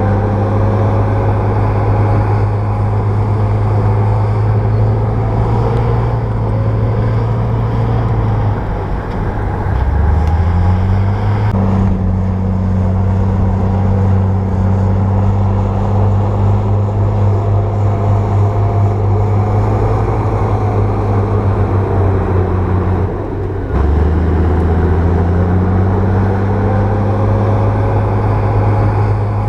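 Bulldozer's diesel engine running under steady throttle. Its speed sags about nine seconds in and again at around 23 seconds, then climbs back each time.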